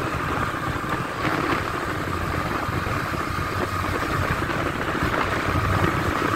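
Honda Biz's small single-cylinder four-stroke engine running steadily in fourth gear while cruising.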